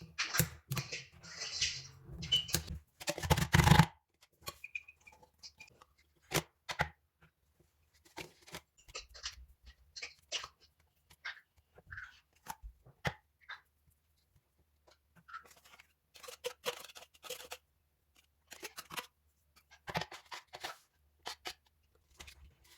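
A cat eating, with scattered short crunching and clicking sounds, preceded by about four seconds of louder rustling noise at the start.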